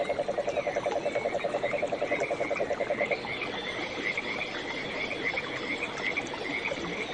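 Animal calls: a low croaking call pulsing rapidly and evenly, about eight pulses a second, stops about three seconds in, while short high chirps keep repeating throughout.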